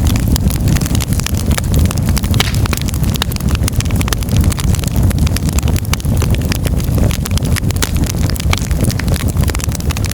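Firewood burning in a fireplace, crackling with many quick, irregular pops over a steady low rumble of the flames.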